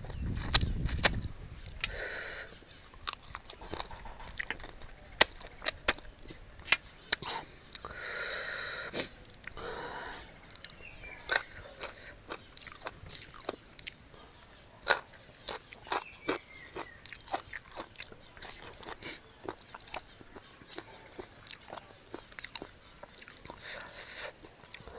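Close-up chewing and crunching of food, with many sharp clicks. About eight seconds in there is a short loud hiss.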